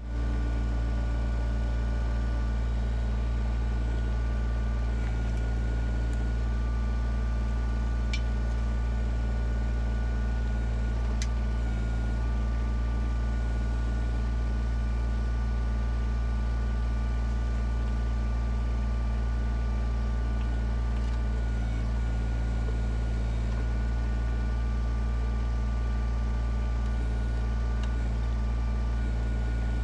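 Kubota BX23S compact tractor's three-cylinder diesel engine running steadily while it digs a footing hole with its backhoe.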